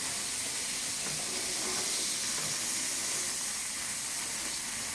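Steady sizzling hiss of food frying over an open campfire.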